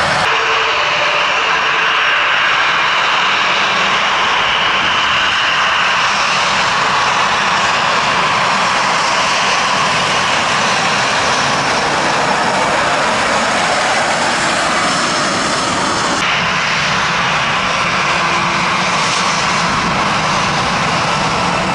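Jet airliner engines running at taxi power, a loud steady rush with a high whine that eases off about six seconds in.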